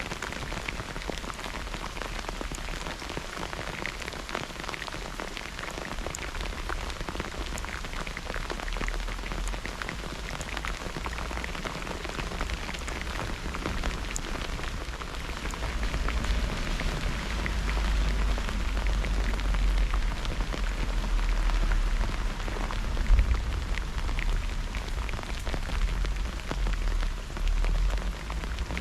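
Steady rain falling, with many individual drops ticking close by. About halfway through, a low rumble swells underneath and the overall level rises.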